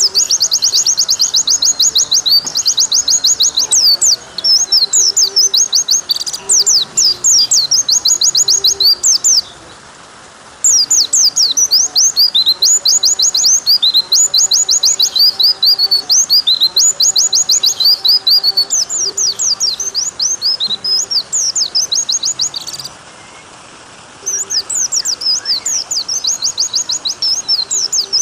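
White-eye (pleci) singing a long, fast run of high chirping trills. The song breaks off briefly twice, once about a third of the way in and again near the end. A steady hiss of running water lies underneath.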